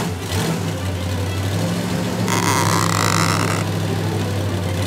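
Car engine sound effect running steadily, laid over the toy scene. A hissing noise joins it for about a second in the middle.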